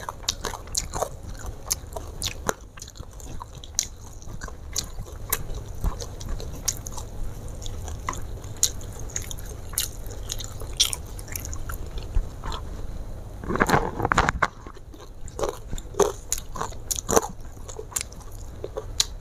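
Close-miked eating sounds: a person chewing and crunching crispy fried chicken, with many short mouth clicks and a denser, louder run of crunching about fourteen seconds in.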